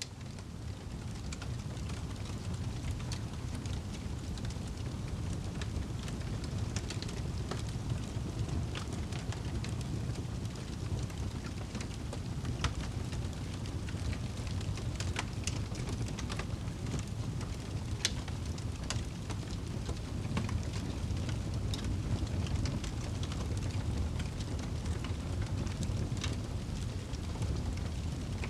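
Wood fire crackling in a fireplace: irregular sharp pops and snaps over a steady low rumble, fading in at the start.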